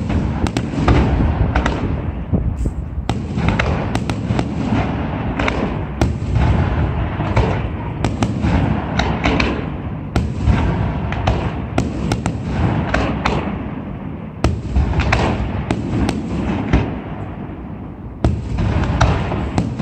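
Fireworks barrage: a dense, continuous run of shell bursts and sharp cracks over a deep rumble, with several louder bangs standing out.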